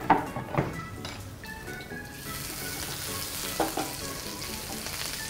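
Chopped ginger, garlic and green chilli frying in hot oil with mustard seeds and cumin, stirred with a spatula in a non-stick pan. A few sharp spatula knocks on the pan come first; about two seconds in a loud, steady sizzle sets in, with more knocks a little later.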